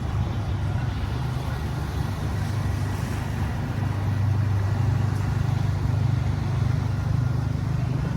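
An EMD Progress Rail F125 diesel-electric locomotive running under load as it pushes a passenger train away, a steady low engine drone that swells a little about halfway through.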